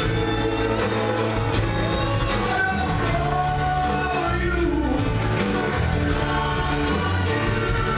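Live rock band playing, with a singing voice over the instruments.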